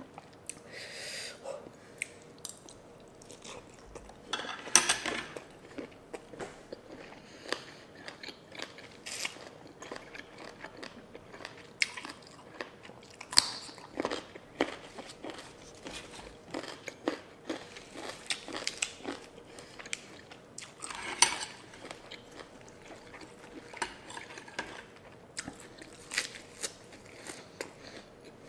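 A person chewing and biting crunchy papaya seafood salad: many small irregular crunches and wet mouth clicks, with louder crunches about five seconds in and again about twenty-one seconds in.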